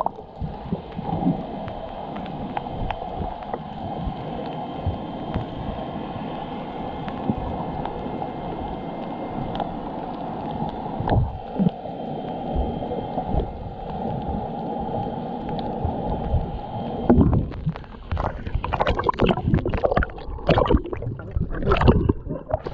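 Muffled underwater rumble and gurgling of sea water heard while diving, with scattered low thumps. About 17 seconds in it turns into louder, sharper splashing and sloshing.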